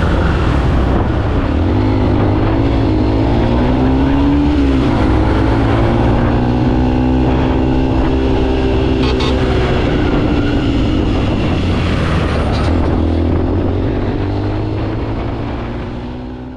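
Motorcycle engine running while riding, under a steady rush of wind and road noise. The engine pitch dips and recovers a few times, and the sound fades out near the end.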